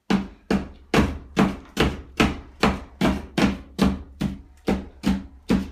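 A steady run of about fourteen sharp knocks, a little over two a second, each ringing briefly.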